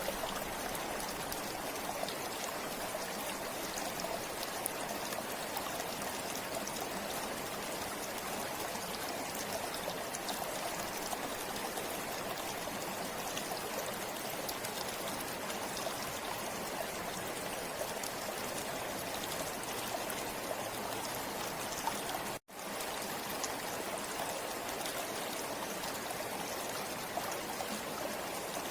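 Forest river flowing in a steady, even rush of water, with a momentary cut to silence about three-quarters of the way through.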